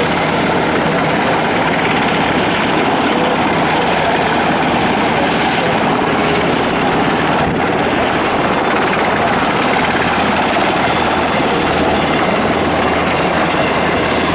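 Sikorsky UH-60 Black Hawk helicopters flying, a steady loud rush of twin-turboshaft engines and rotors.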